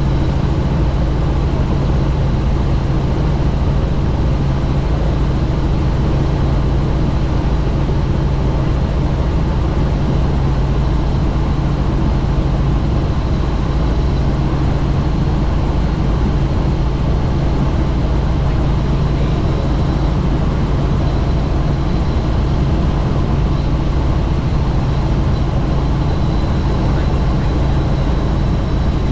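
Helicopter in steady flight, heard from on board: loud, unbroken rotor and engine noise with a constant low hum and a thin, steady high tone.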